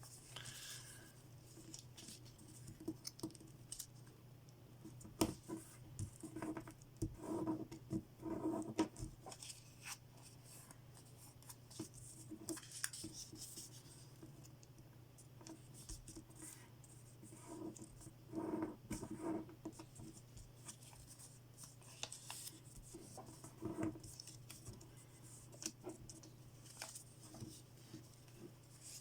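A sheet of origami paper being folded and creased by hand: soft, scattered rustles and scrapes with occasional small clicks, over a faint steady low hum.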